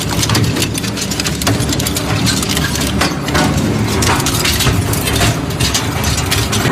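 Crusher machine running and breaking up material: a steady motor hum under a constant stream of sharp cracks and snaps.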